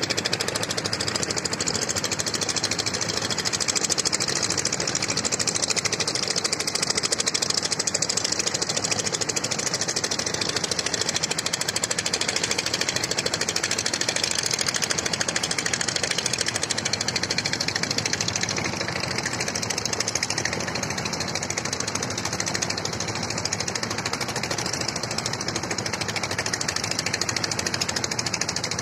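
An engine running steadily with a rapid, even pulsing beat.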